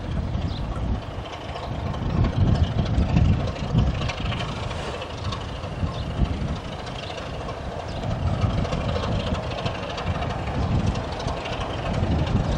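Heritage diesel locomotive's engine running with its train, a low rumble that swells and eases.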